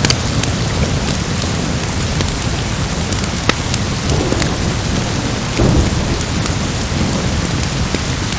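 Steady heavy rain with a low thunder rumble that swells about four to six seconds in. Sharp pops from a crackling wood fire are scattered throughout.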